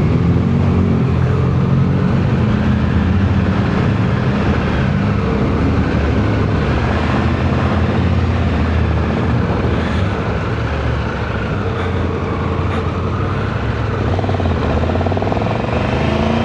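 Motorcycle engine running under way, its pitch drifting gently up and down over a steady rushing noise.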